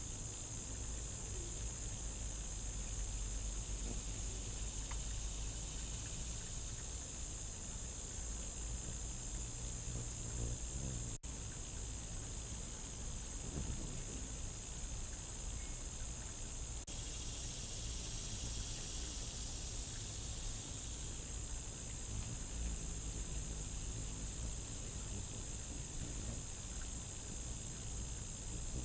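Steady, unbroken insect chorus of crickets or katydids, a continuous high-pitched trill, over a low outdoor rumble.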